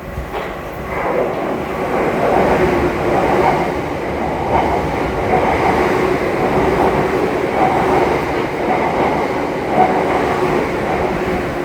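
Electric train running past close by, its noise swelling over the first two seconds and then holding steady with a faint steady hum.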